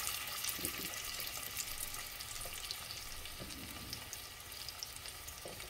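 A beef chapli kebab patty shallow-frying in a little hot oil in a nonstick frying pan: a steady sizzle with small pops and crackles, easing slowly.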